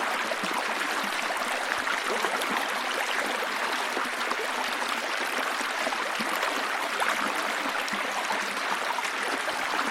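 Water running over a waterfall: a steady rush with many small splashes throughout.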